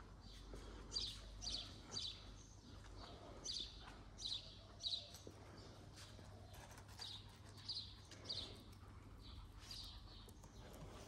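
A small bird chirping: short, high chirps in runs of two or three, about two a second, with pauses of a second or two between runs.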